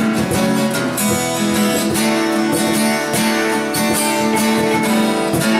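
Live band playing an instrumental passage between sung lines of a rock song, with strummed guitar to the fore over a steady beat.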